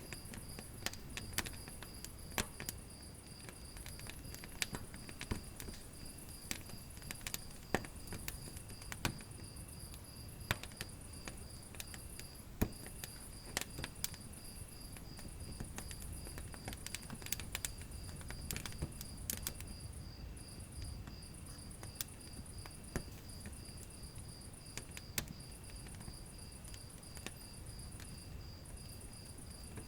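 Wood fire in a fireplace crackling, with irregular sharp pops and snaps. Under it runs a steady, rapidly pulsing high-pitched trill.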